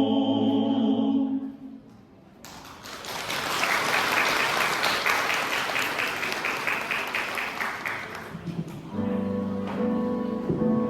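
A held chord fades out, then an audience applauds for about six seconds, and instrumental music starts again near the end.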